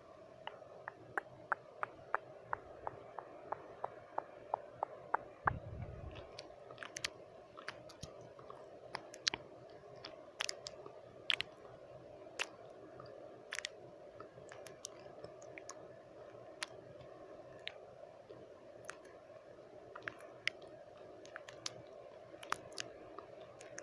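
Close-up wet mouth sounds: sharp tongue and lip clicks, at first in a quick even run of about three a second, then scattered, over a steady white-noise bed. A soft low thump comes about five and a half seconds in.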